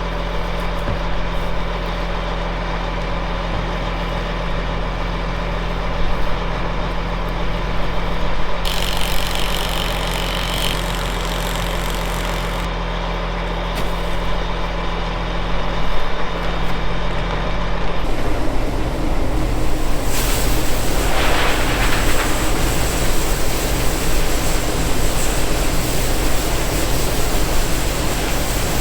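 Heavy diesel farm machinery running steadily, its engine hum changing several times. A broad rushing noise builds in about two-thirds of the way through.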